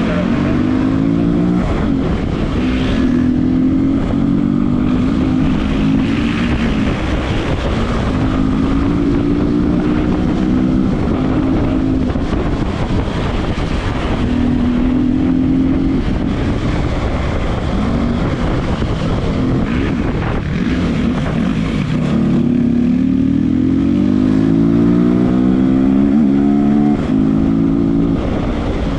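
Motorcycle engine running hard at speed, its pitch climbing and dropping again and again as it revs through the gears, over a steady rush of wind.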